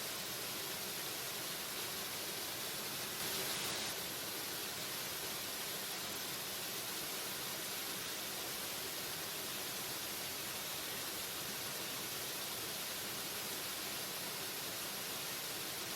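Waterfall: a steady rush of falling water, swelling briefly a little louder about three seconds in.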